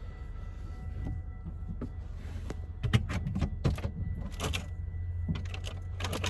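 Rummaging for a fork: a handful of short clicks and knocks from items being moved about, mostly in the second half, over a steady low hum.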